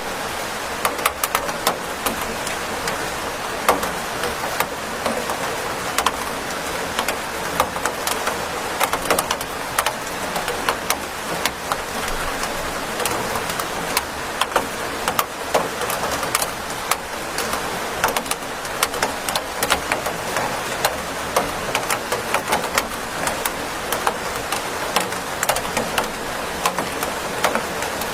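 Steady rain with many close, sharp drop impacts on a hard surface, keeping an even level throughout.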